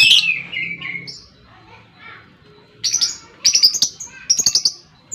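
Lovebirds calling with shrill, harsh chirps: a dense burst at the start, a short lull, then quick runs of sharp chirps from about three seconds in.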